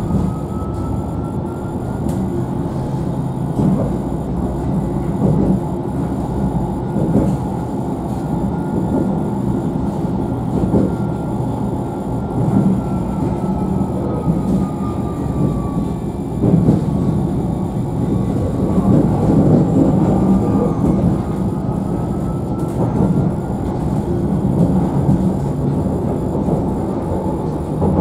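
Alstom Citadis tram running, heard from on board: a steady rumble of wheels on rails with scattered knocks, and a faint motor whine that rises in pitch, falls about halfway through, and rises again as the tram changes speed.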